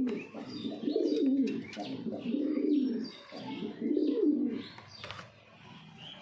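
Pigeon cooing: four low warbling coo phrases over about four and a half seconds, then fading away.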